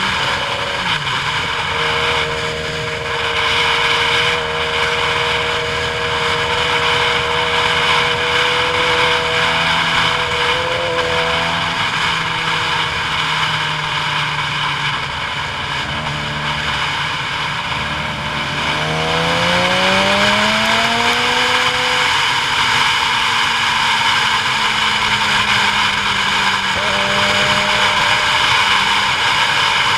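A vehicle's engine running under a steady rushing noise, its pitch holding fairly level and then rising for a few seconds about two-thirds of the way through before settling again.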